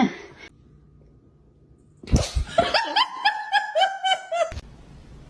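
A person laughing in a high-pitched, rapid run of "ha-ha" pulses for about two seconds, starting and cutting off abruptly.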